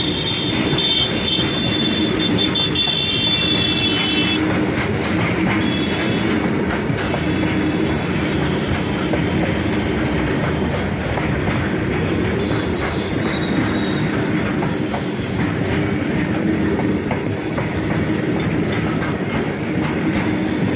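Freight train of open-top wagons rolling past, a steady clatter of wheels over the rails. A high squeal from the wheels rings out over it for the first four seconds, then briefly comes back twice.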